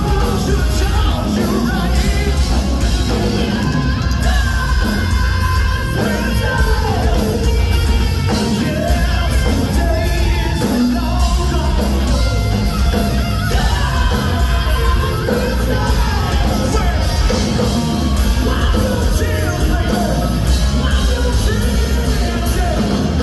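Hard rock song playing loudly: a full band with a strong, steady low end under a male lead vocal that sings and yells.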